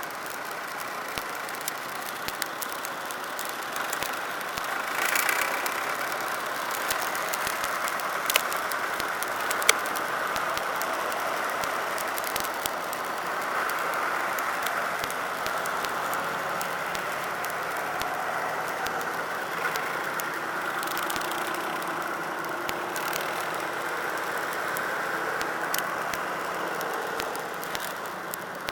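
Tractor engines running steadily, with a few sharp clicks or knocks over the top.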